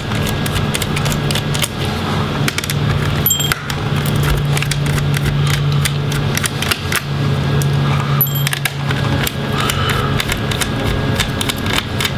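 Screwdriver with a Phillips bit backing out the four screws holding a laptop's hard drive caddy: a low steady hum in three long stretches, with small metallic clicks and rattles of screws and tools throughout.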